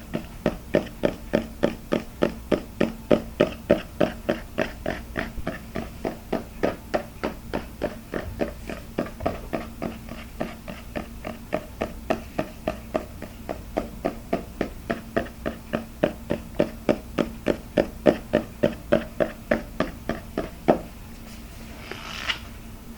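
Fast, even tapping on a hard object, about three taps a second, over a faint steady hum. The tapping stops about three seconds before the end, followed by one harder tap and a brief scratchy rustle.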